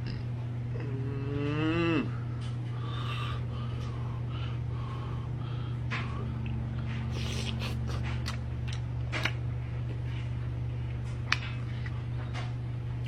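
A person eating: a drawn-out, rising "mmm" of enjoyment ending sharply about two seconds in, then chewing with wet mouth clicks and smacks. A steady low hum runs underneath.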